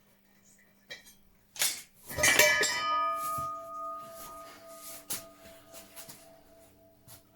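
A metal object clatters down with a loud clank about two seconds in and rings on with clear tones for several seconds, after a lighter knock just before it; a few light knocks and taps follow.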